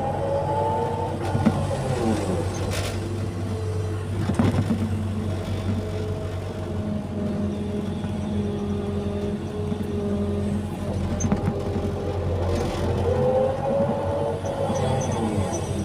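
Excavator diesel engine running steadily under load, with a hydraulic whine that rises and falls as the boom and bucket move earth. A few sharp knocks come through, about 1.5, 3, 4.5 and 12.5 seconds in.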